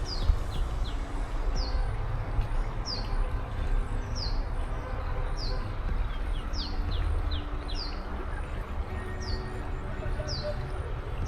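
A bird repeats a short, high, falling call about once a second, with fainter, quicker falling notes in small clusters between. A steady low rumble runs beneath.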